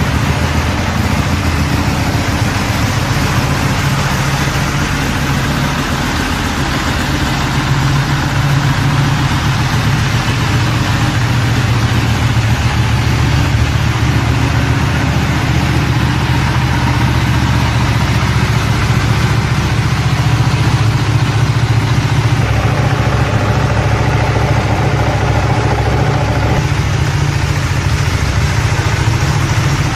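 A motorcycle engine running steadily at a low, even speed, close and loud, with no revving.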